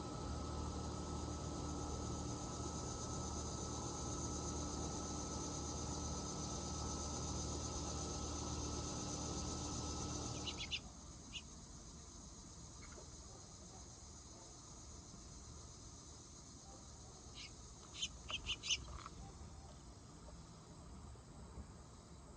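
Insects trill steadily in a continuous high tone. A steady mechanical-sounding hum underneath stops abruptly about halfway. A few short, high bird chirps come just after the hum stops, and a quick cluster of them comes near the end.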